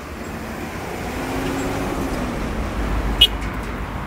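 Bus engine running with a steady low rumble, and a single sharp click a little after three seconds in.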